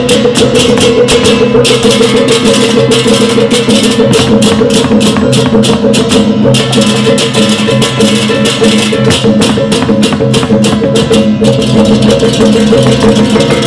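Balinese gamelan ensemble playing: rapid, even metallic strikes over steady sustained tones.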